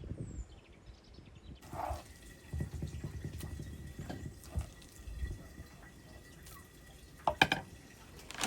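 Water dripping and splashing amid irregular light knocks and clicks of handling, with a sharper clatter near the end.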